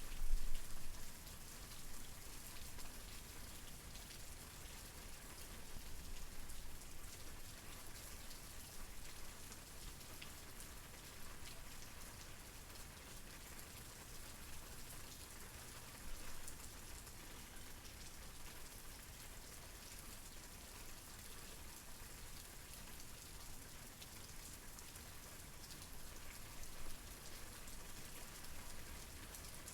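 Steady rain falling, individual drops ticking over an even hiss with a low rumble beneath. It swells louder briefly about half a second in.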